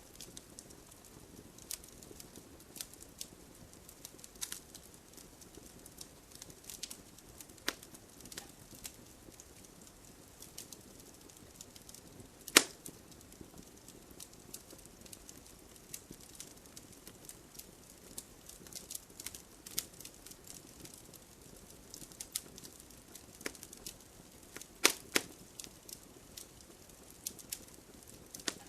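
Wood fire in a home fireplace crackling: irregular sharp pops and snaps over a soft hiss, with one loud pop about twelve seconds in and a couple more near the end.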